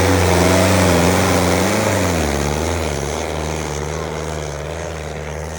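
Sonalika tractor's diesel engine running hard under load; its pitch wavers and drops about two seconds in, and the sound then slowly grows quieter.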